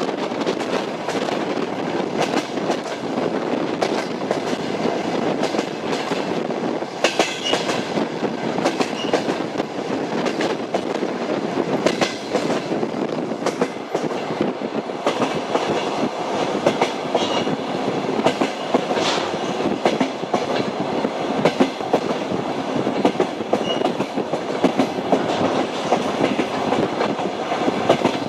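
Train wheels clattering over rail joints as the train runs steadily: a continuous rumble with repeated clicks and knocks, and a few brief faint high squeals.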